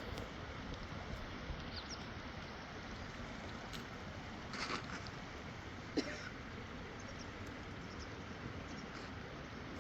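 Steady rush of a fast-flowing river, with a couple of brief knocks, the sharpest about six seconds in.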